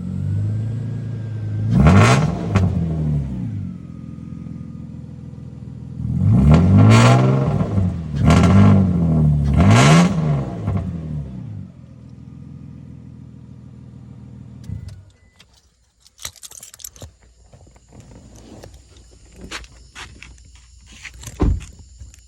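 Car with a straight-piped exhaust idling, then blipped hard four times, its revs rising and falling quickly each time. After that it settles back to idle and is switched off, and the sound cuts out sharply. A few faint clicks and knocks follow.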